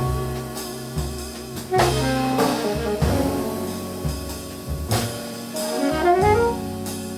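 Jazz quartet playing: alto saxophone, double bass, drum kit and keys. The bass steps through low notes under drum and cymbal hits, and a rising run of notes climbs near the end.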